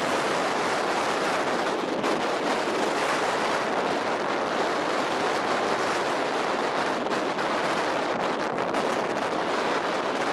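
Strong wind rushing steadily over the microphone, with faint irregular crackles.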